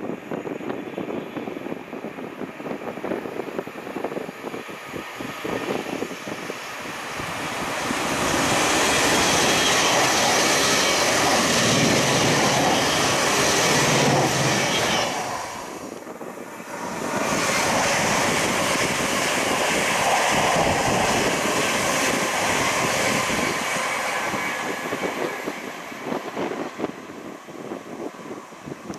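A train passing on the main line: a rushing noise builds, holds loud for several seconds, dips sharply about halfway through, swells again and then fades away.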